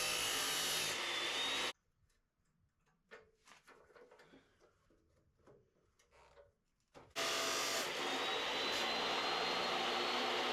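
A power cutting tool running while it cuts steel stock into pieces for a Damascus billet. The sound is a steady noisy run with a high whine that rises slightly. It stops abruptly under two seconds in, and a few seconds of near silence with faint clicks follow. It then starts again about seven seconds in.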